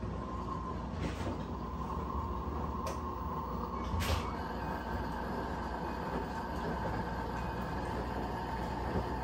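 Brastemp 17 kg washing machine running mid-cycle: a steady motor hum with a few short clicks, the loudest about four seconds in.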